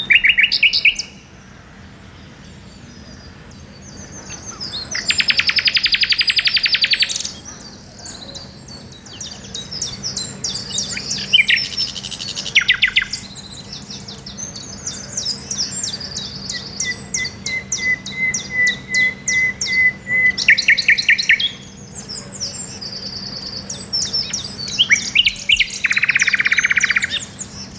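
Common nightingale singing: varied phrases with pauses between them. Fast rattling trills alternate with high chirps and a run of repeated piping notes that swell in loudness.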